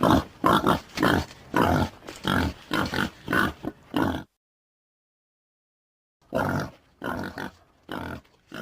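Boar grunting in a series of short grunts, about two a second. The sound cuts out completely for about two seconds midway, then the grunting resumes, softer toward the end.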